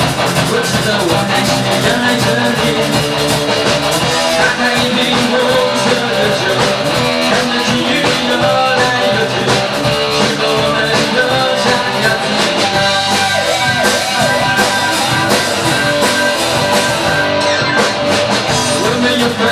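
Rock band playing, with guitar and drum kit.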